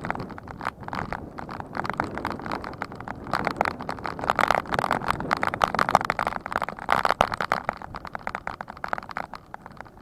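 Dense, irregular rattling and clicking, with a rushing hiss from a bicycle being ridden over a rough surface.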